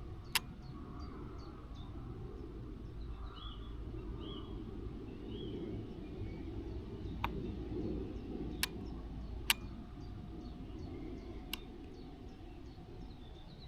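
Outdoor ambience: a steady low rumble of wind or background noise, with a few short bird chirps and five sharp clicks scattered through.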